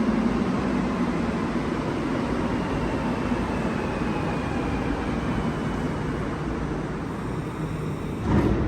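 Montreal metro train running in the station: a steady rumble with a faint high whine that slowly falls in pitch, and a brief louder surge near the end.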